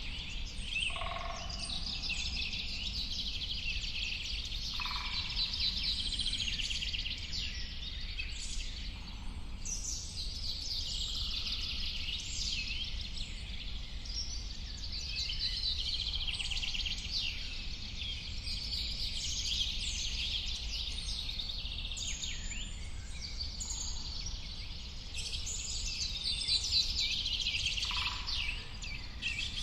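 A dense chorus of many songbirds singing and chirping at once, with rapid trills and short calls overlapping throughout, over a steady low rumble.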